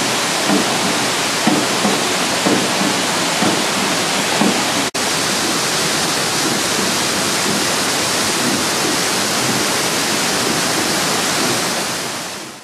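Waterfall rushing steadily, with a soft low thump about once a second during the first half. It cuts out for an instant near the middle and fades out at the end.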